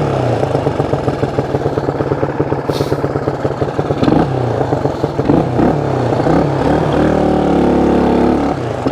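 1974 Honda XL175's single-cylinder four-stroke engine running with its revs rising and falling, then holding a steady speed for a second or so near the end.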